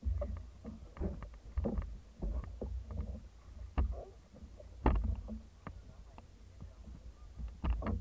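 Paddles of a Thai long-boat crew splashing and knocking in irregular strokes, over a low rumble; the loudest stroke comes about five seconds in.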